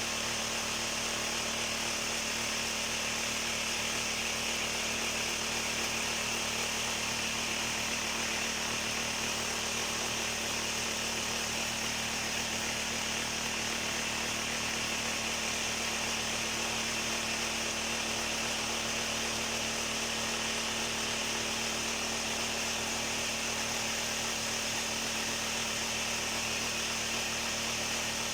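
Concrete vibrating table running steadily, shaking a freshly cast concrete piece in its mould: a constant mechanical hum with a buzzing rattle over it.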